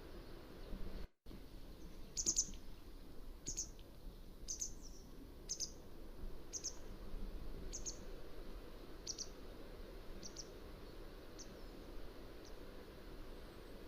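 Mountain wagtail calling: a series of about ten short, sharp, high-pitched notes, roughly one a second, growing fainter toward the end. A brief dropout to silence about a second in.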